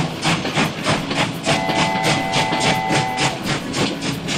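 Cartoon train sound effect: steam-train chugging in quick, even puffs, about four a second. About a second and a half in, a train whistle sounds a steady chord for about two seconds.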